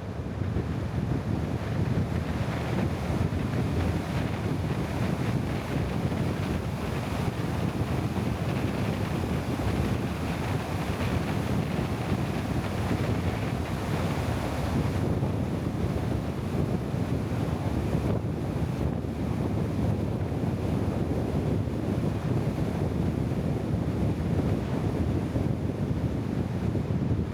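Steady rushing wind buffeting the microphone, with a continuous low rumble underneath and no distinct events.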